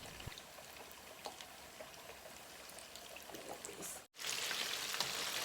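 Cornflour-coated barramundi pieces deep-frying in hot oil: faint scattered crackles and pops at first, then, after a cut about four seconds in, a steady louder sizzle.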